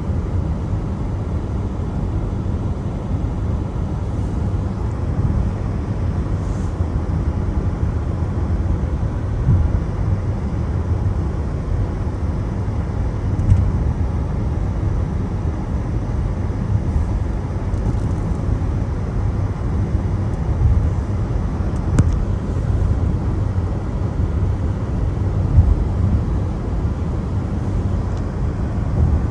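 Car driving on a wet road in the rain: a steady low rumble of road and tyre noise, with a few faint ticks.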